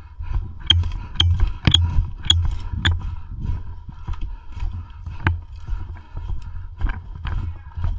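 Footsteps of a player walking briskly over rough ground, about two steps a second for the first few seconds, with sharp cracks and crunches underfoot and low thuds. The steps grow sparser after a brief pause.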